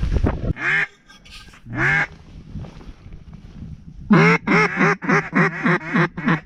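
Mallard-style quacking: a single quack, another about a second later, then a quick run of about seven quacks about four seconds in.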